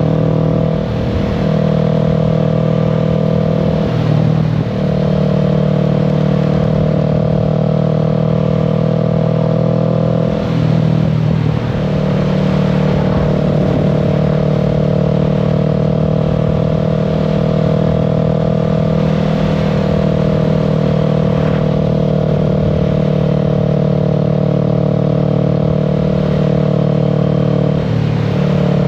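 Kawasaki Z650's parallel-twin engine running steadily at cruising speed, heard from the rider's seat. The note dips and bends briefly a few times, about a second in, around four to five seconds, around ten to twelve seconds and near the end, before settling back to a steady pitch.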